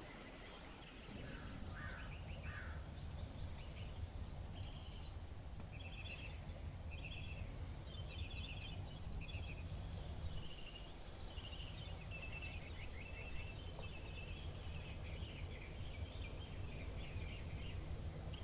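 Small birds chirping and trilling in short repeated phrases, over a steady low outdoor rumble.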